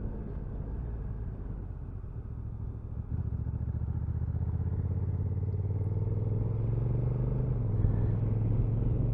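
Honda NT1100 motorcycle's parallel-twin engine running on the move. About three seconds in it gets suddenly louder, then the engine note rises steadily as the bike accelerates.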